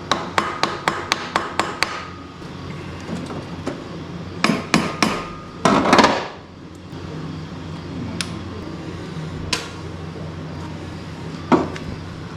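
Hand tools striking and clicking on metal carburetor parts. A quick run of sharp, ringing metallic taps, about four a second, comes first, then a few more taps, a short scrape a little past halfway, and scattered single knocks.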